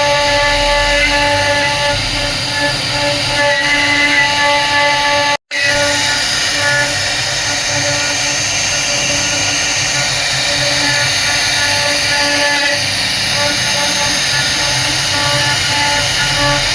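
CNC router spindle running steadily with a high whine as it carves wood. The sound cuts out for an instant about five seconds in.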